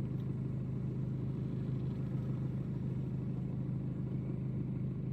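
A steady low rumbling hum of background noise, with no distinct events.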